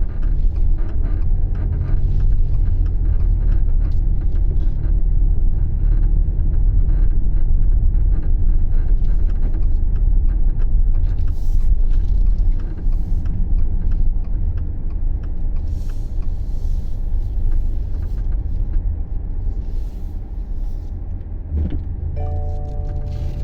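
Subaru Levorg on the move, heard from inside the cabin: a loud, steady low rumble from the road and drivetrain, with scattered short clicks and rattles, recorded as an abnormal noise while driving. Near the end, a held chime-like tone comes in.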